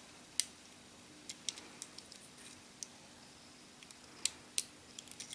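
Light, irregular clicks and taps of small parts being handled as a replacement iPhone 4 home button is worked into its holes in the phone, about a dozen sharp ticks over a faint steady hum.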